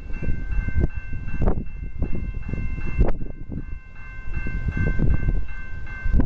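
Commuter train passing with a low rumble, over which a warning signal rings in steady, pulsing tones. Wind buffets the microphone.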